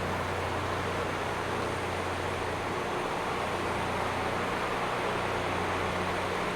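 Rail grinding machine working the railhead: a steady, harsh, hissing grind of abrasive wheels on steel rail over a constant low engine hum.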